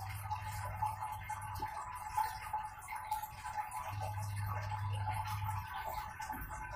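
Light rain pattering, with water trickling in a home aquarium, heard as a dense fine ticking patter. A low hum comes and goes twice.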